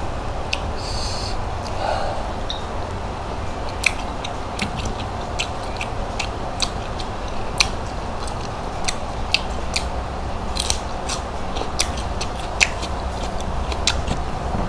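Irregular crisp clicks and crackles of roasted whole shrimp being pulled apart and peeled by hand and eaten, about one or two a second, over a steady low hum.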